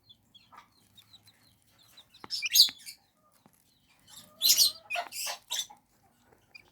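Young chicks peeping softly, with two louder spells of rustling and scuffling, about two seconds and four seconds in.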